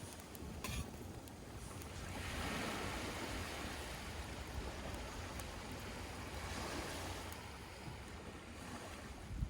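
Surf washing ashore in slow swells, with wind rumbling on the microphone.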